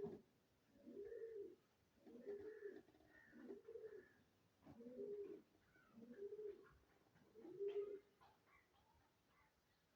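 Faint bird cooing: a series of low, arching calls about one a second, ending about eight seconds in.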